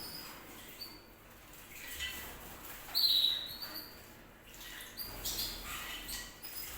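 Canary singing: high whistled notes and trills, the loudest note about three seconds in, then a run of quick trilled phrases near the end.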